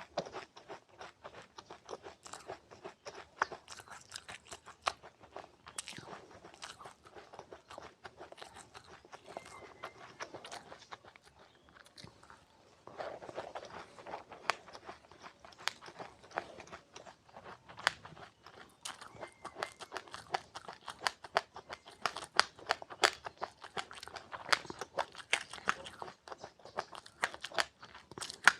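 A person chewing crunchy seeds close to the microphone: a dense run of small, sharp crunches, easing off briefly about halfway through before picking up again.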